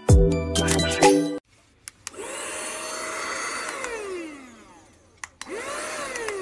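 Background music ends about a second in. Then a handheld cordless mini vacuum cleaner is clicked on, its motor whine rising to speed and running for about two seconds before winding down in a falling whine. Near the end it is clicked on again and spins up once more.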